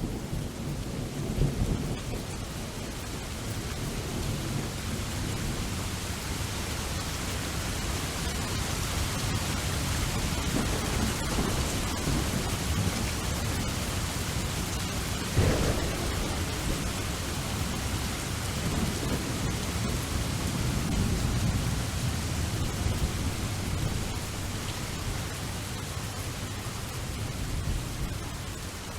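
Steady rain falling, with low rumbles of thunder swelling and fading, and one sharp crack about halfway through.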